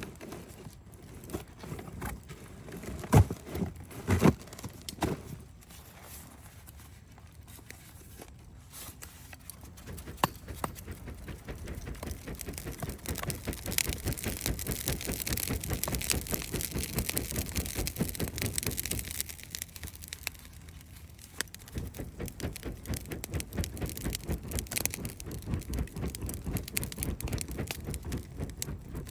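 Campfire crackling with dense, irregular pops, and a hiss that swells and fades in the middle. A few loud knocks come about three to five seconds in.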